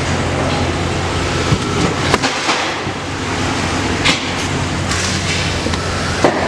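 Chevrolet Silverado 2500 pickup heard from inside the cab: engine running with a steady low hum and a hiss of road or shop noise, broken by a few sharp clicks.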